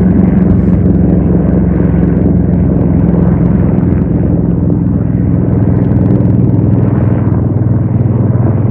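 Motor vehicle running, a loud steady engine drone with road rumble. Its note drops about four seconds in.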